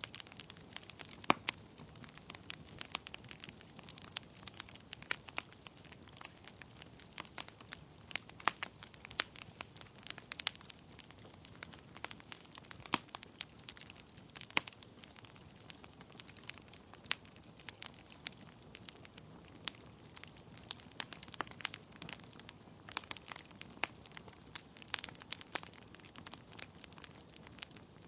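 Wood fire burning in a fireplace: logs crackling with irregular sharp cracks over a soft steady hiss of flame.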